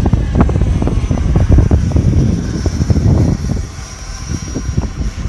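Wind buffeting the microphone, with the thin high whine of a model jet's 70mm 12-blade electric ducted fan flying by, swelling from about halfway through and strongest near the end.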